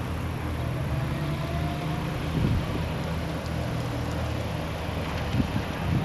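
A vehicle engine idling close by: a steady low hum, with a couple of brief low knocks.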